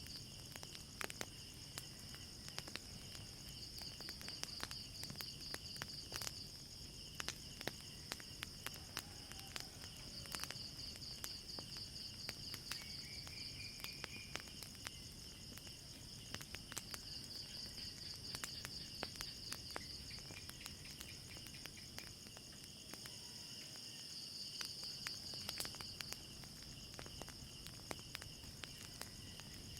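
Crickets chirping steadily in a continuous pulsing trill, with irregular sharp pops and crackles from a wood fire.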